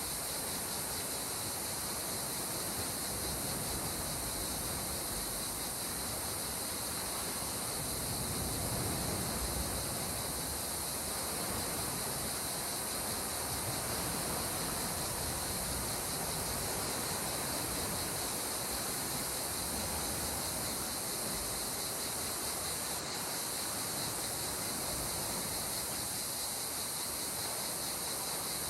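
Calm sea water washing gently and steadily, with a slight swell about a third of the way in, under a constant high hiss.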